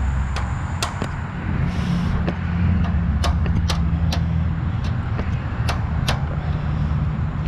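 About ten sharp hammer blows at an uneven pace, driving fence fasteners, over the steady low hum of an engine running.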